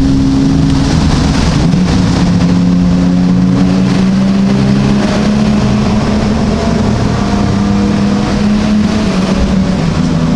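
Car engine and exhaust droning steadily, heard from inside a moving car, the pitch dropping or shifting in steps a few times.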